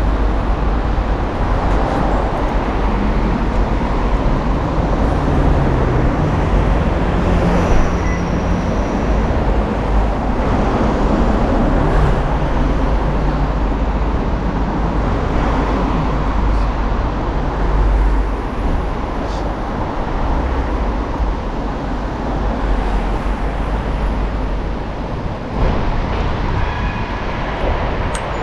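Steady traffic noise with a heavy low rumble.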